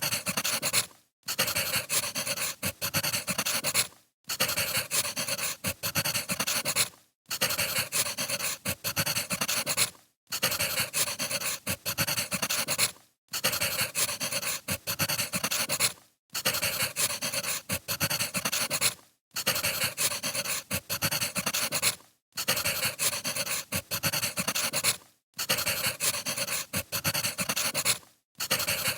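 Crackling firewood, a short fire recording looped about every three seconds, with a brief drop to silence between repeats.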